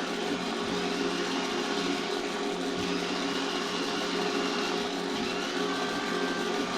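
A 1/18 scale Spitfire Mk1A model running its remote-controlled motorised functions: a steady mechanical drone, with faint high whines that slide up and down now and then.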